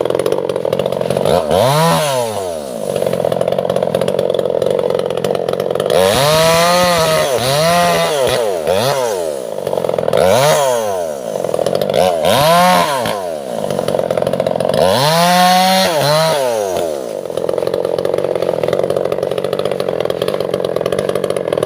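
Two-stroke chainsaw running, its engine revving up and dropping back about six times over a steady background drone.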